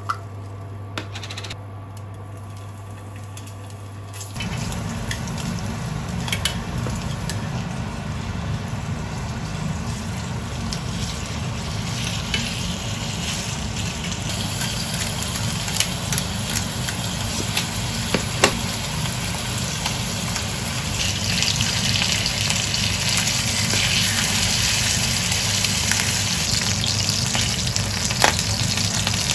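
Chicken thighs sizzling as they fry in olive oil in a frying pan. The sizzle comes in about four seconds in and grows louder toward the end, with light clicks of wooden chopsticks against the pan as the pieces are moved and turned. A steady low hum sits under the first few seconds.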